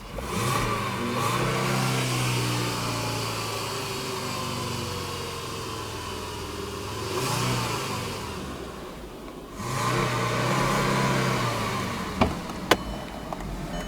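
2009 Volkswagen Rabbit's 2.5 L inline five-cylinder engine being revved three times, each time rising in pitch and falling back toward idle; the first and last revs are held for a second or two. Two sharp clicks come near the end.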